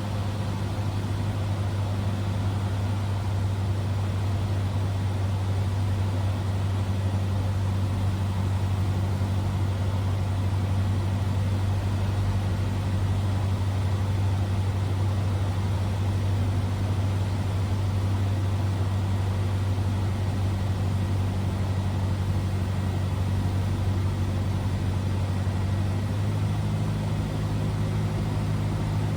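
Cessna 172R's four-cylinder Lycoming engine and propeller droning steadily in the cabin at descent power on approach, its tone shifting slightly about 26 seconds in.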